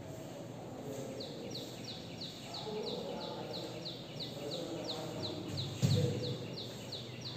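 A bird calling a fast, even series of short high chirps, about three a second, starting about a second in. A single low thump about six seconds in.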